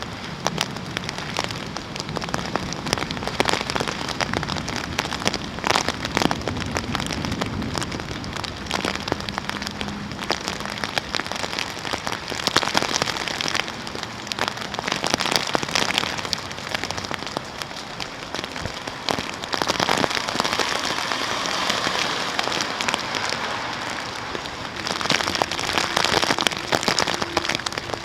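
Heavy rain falling steadily during a thunderstorm, with many individual drops striking close by as sharp ticks.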